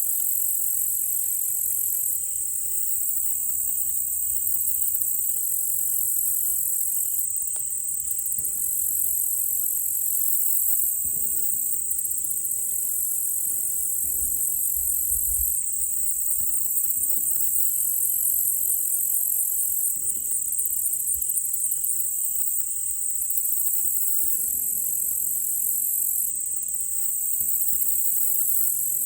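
Dense chorus of insects, a steady high-pitched buzzing that pulses and shifts in blocks. Twice, a faint run of short repeated notes sounds beneath it.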